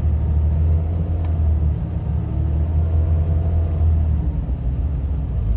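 Truck driving slowly up a snow-covered road, heard from inside the cab: a steady low rumble of engine and road noise, with a faint engine hum that drifts slightly in pitch.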